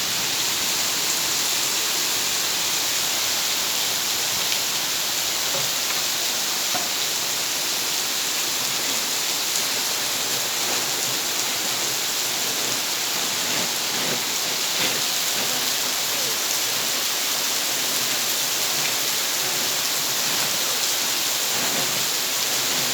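Heavy rain pouring down steadily, a dense even hiss with scattered ticks of drops.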